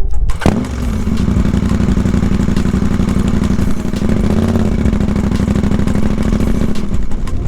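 KTM 790 Adventure R Rally parallel-twin engine running at fairly steady revs through stock Akrapovic headers, a decatted link pipe and the baffle left in. The pitch lifts a little about halfway through.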